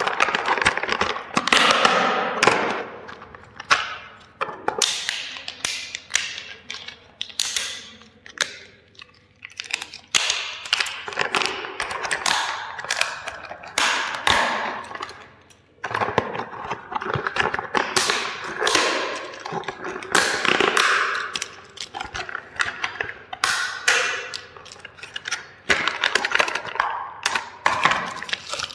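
Toys being crushed: a long run of sharp cracks, snaps and clattering of breaking toy parts, coming in bursts a second or two apart.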